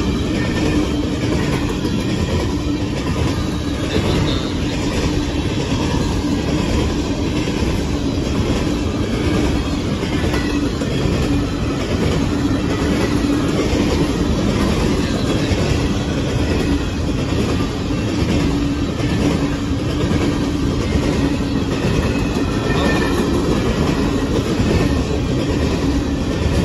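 Empty coal cars of a freight train rolling past on the rails, a steady unbroken noise with a low steady tone running through it.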